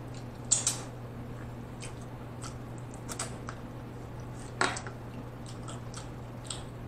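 Close-miked chewing of spaghetti with wet mouth sounds: a few short smacks and clicks, about half a second, three seconds and nearly five seconds in, over a steady low hum.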